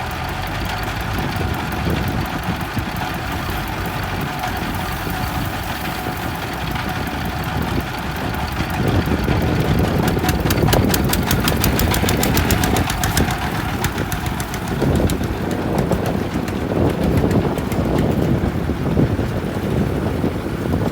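Kubota M5018 tractor's diesel engine running steadily, getting louder about nine seconds in.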